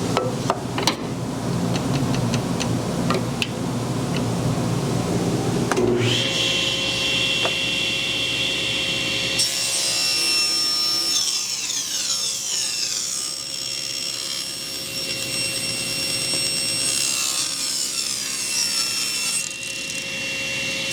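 Table saw ripping a board: the blade's steady whine comes in about a quarter of the way through, and a rougher cutting noise fills the middle as the wood is fed through the blade.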